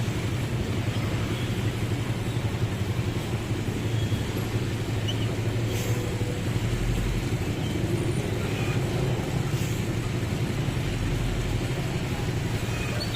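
Twelve-wheel heavy truck's diesel engine running steadily, a low rumble.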